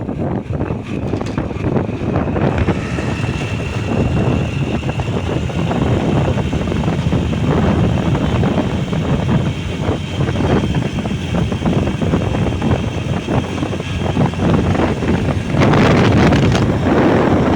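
Wind rushing over the microphone of a moving motorbike, with the engine running underneath. The wind surges louder near the end.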